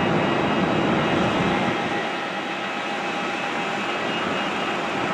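Rolls-Royce Trent 900 jet engines of an Airbus A380, heard as a steady rush with faint whining tones. The low rumble eases a little about two seconds in.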